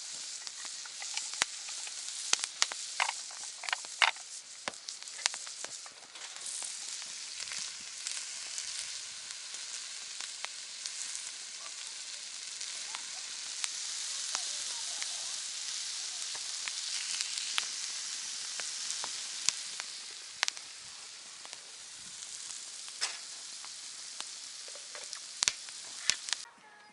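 Wood campfire crackling: a steady hiss with irregular sharp pops and snaps, cutting off suddenly just before the end.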